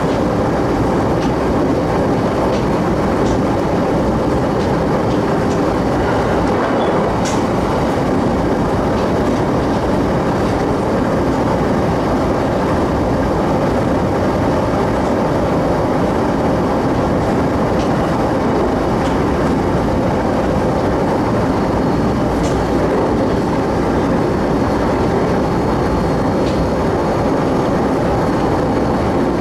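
Steady running noise inside a moving electric train's passenger car: wheels on the rails and the car body's rumble, with a few light clicks along the way.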